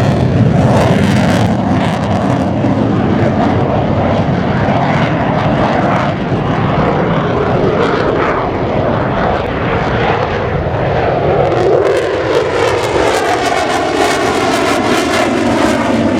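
Loud jet noise of a Mitsubishi F-2B fighter's single General Electric F110 turbofan engine as the jet flies its display. Over the last few seconds the sound takes on a swirling, phasing quality as the jet passes.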